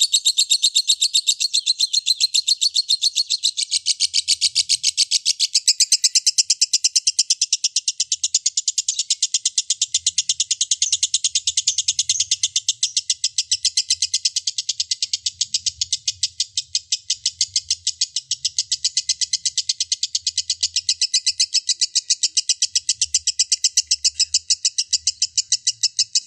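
Lovebird in 'ngekek', its long unbroken chattering song: shrill notes repeated rapidly and evenly, several a second, without a pause.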